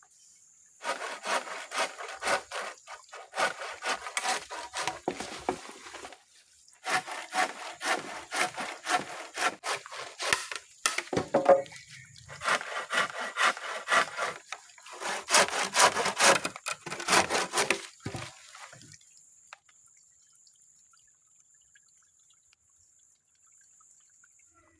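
Hand saw cutting wood in four bouts of quick back-and-forth strokes, stopping about 18 seconds in.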